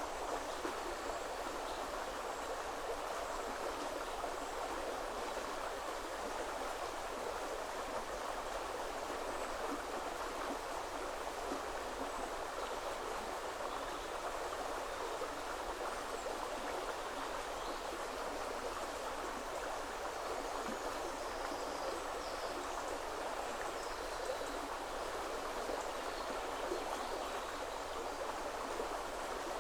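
River water flowing, a steady even rushing with no change in level, and a few faint high bird chirps here and there.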